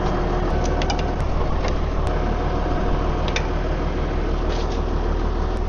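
Tractor engine running steadily with a low hum, with scattered sharp metal clicks and knocks from hands-on work at the hitch and hydraulic hose couplers.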